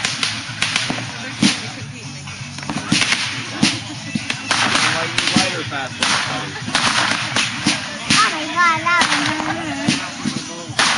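Consumer fireworks going off: an irregular rapid series of sharp cracks and bangs from bursting shells.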